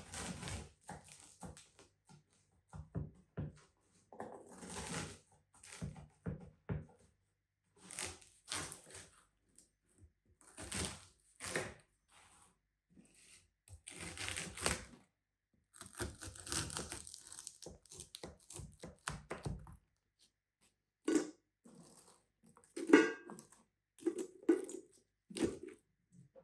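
Food being prepared by hand in a kitchen: a long run of short rustling, tearing sounds, then a few sharp knocks near the end.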